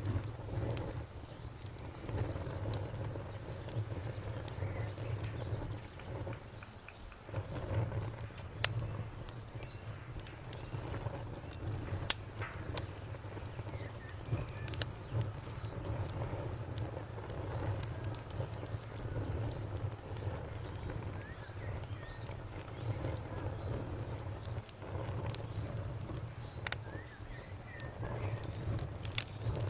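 Wood fire crackling, with scattered sharp pops over a low steady rumble, while a cricket chirps in a steady fast pulse. A few short bird chirps come near the end.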